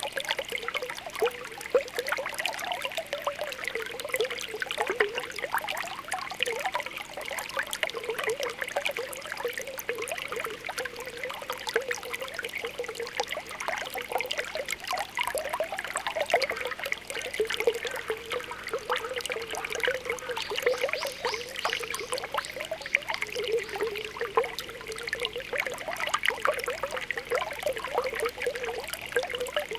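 Spring water welling up from the ground, popping and bubbling continuously with a steady trickle. Many small pops come close together over an even watery hiss.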